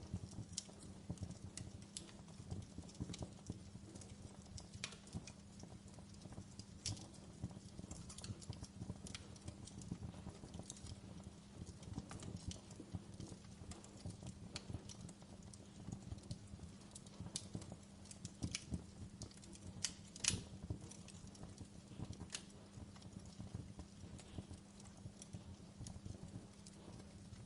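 Wood fire burning in a fireplace, the logs crackling with irregular sharp pops and snaps over a low steady rumble. One pop about twenty seconds in is louder than the rest.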